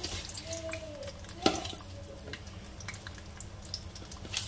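Chana dal, urad dal and cumin frying in hot oil in a kadai, a light sizzle under the scrape and clink of a steel spoon stirring them, with one sharp clink about one and a half seconds in.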